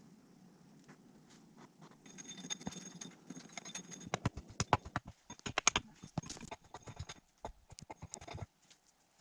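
Footsteps crunching and breaking through deep, wet snow. They start about two seconds in as a run of irregular crunches, are loudest in the middle, and stop shortly before the end.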